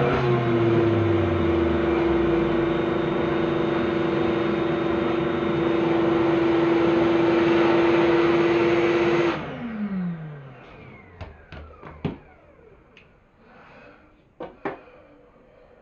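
Vacuum cleaner running with a steady whine and rush of air, switched off about nine seconds in, its motor winding down with a falling whine. A few sharp clicks and knocks follow.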